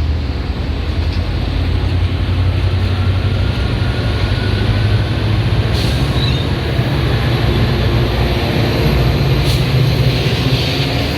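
Metra commuter train running with a steady low rumble, with a couple of sharp clicks about halfway and near the end.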